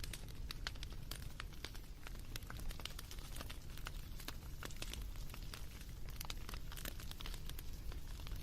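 Campfire crackling: many irregular small snaps and pops over a low steady rumble.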